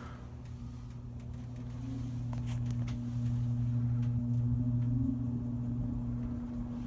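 Vintage Kisco box fan's electric motor running on its low speed: a steady hum with a deep tone and one an octave higher. It grows louder over the first few seconds as the fan comes up to speed, then eases slightly.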